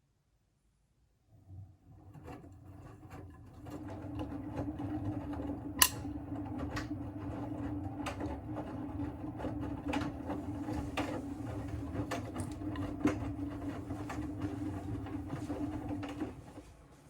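Siemens WM14T490 washing machine's drum motor starting about a second in and turning the drum for about fifteen seconds, with a steady hum and irregular clicks and knocks, one sharp click among them, then stopping near the end. The machine has a damaged drum bearing.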